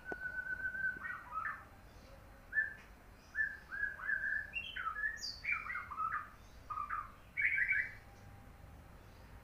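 A bird singing: a held whistle, then a quick run of short chirping notes that jump up and down in pitch, stopping about a second before the end.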